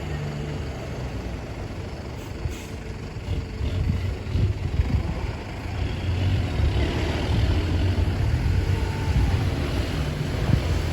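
Ten-wheel dump truck's diesel engine running as the truck drives, a low rumble that grows louder about halfway through.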